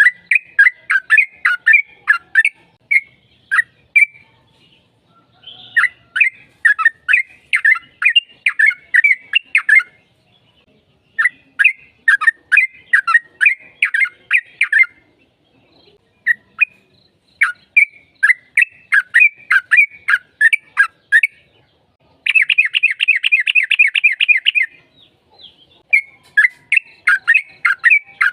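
Sooty-headed bulbul (trucukan) singing in long rapid runs of sharp, down-slurred whistled notes. The runs come in bouts of a few seconds with short pauses between them, and a fast, dense trill of about two and a half seconds comes near the end.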